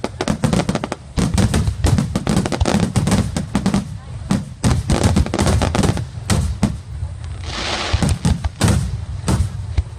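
Fireworks display going off: a rapid, dense run of bangs and crackles over a low rumble, with a short hissing crackle about three quarters of the way through.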